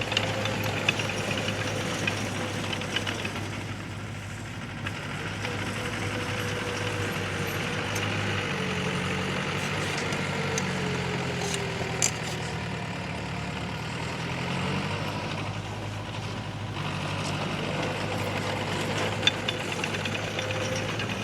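Diesel engine of heavy earth-moving machinery running steadily. Its whine drops in pitch and the engine note changes through the middle, then it comes back up. A few sharp clanks are heard, the clearest near the middle and near the end.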